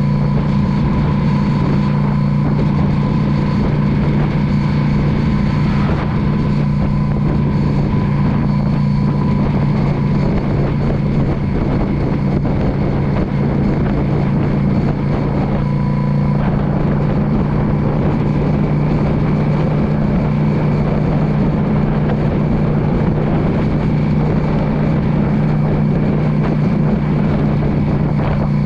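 A 2016 Yamaha V Star 650's V-twin engine running at a steady pitch as the motorcycle cruises, heard with road and wind noise.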